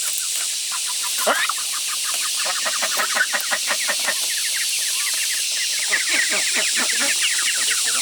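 A crowd of ducklings peeping together: many short, high, overlapping calls, several a second, with one longer falling call about a second in.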